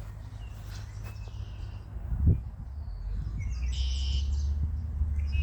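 Birds chirping over a steady low rumble, with a single thump about two seconds in.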